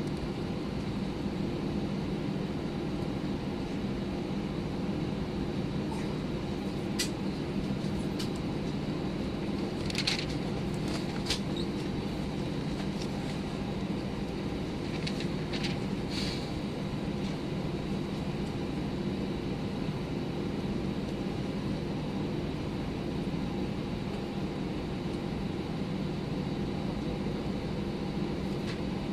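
Steady cabin noise inside an Airbus A319 from a front window seat: the engines and air rushing past the fuselage, with a low hum. A few faint clicks and rattles come between about six and seventeen seconds in.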